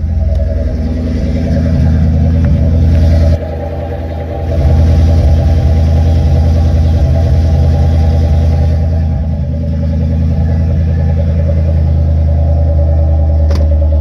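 2004 Ford Mustang Mach 1's 4.6-litre DOHC V8 idling steadily just after a cold start. It goes briefly quieter for about a second, about three and a half seconds in.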